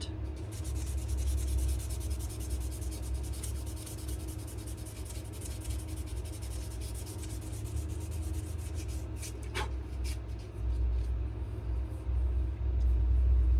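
Sandpaper rubbing in quick back-and-forth strokes over a wooden knife handle of wenge and maple. A low rumble underneath grows louder near the end.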